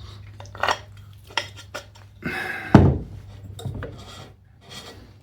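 Parts of an electric drill being handled and fitted together: scattered light clicks and knocks, with a longer rubbing scrape ending in a sharper knock about two and a half to three seconds in.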